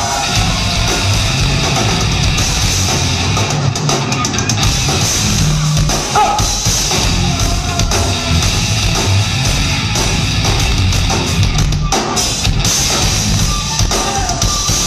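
Loud live heavy metal with a drum kit pounding continuously, in a drum solo with the band.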